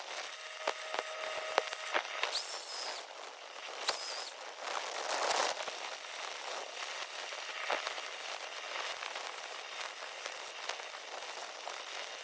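Arc welding crackling and sizzling steadily on heavy steel, with a couple of brief brighter flares.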